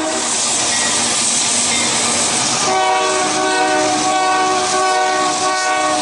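Train horn blowing over the loud rush of a passing train. The horn's chord comes in strongly about halfway through and holds. The horn is sounded as a warning to construction workers close to the tracks.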